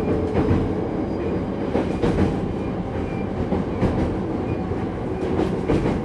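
Hankyu 8200 series electric train running, heard from inside the car: a steady rumble of wheels on rail with irregular clacks over rail joints.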